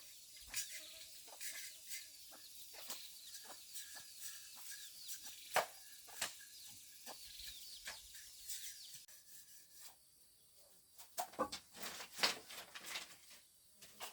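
Chickens clucking and chirping, with many scattered taps and knocks. The chirping stops about nine seconds in, and a few louder knocks follow near the end.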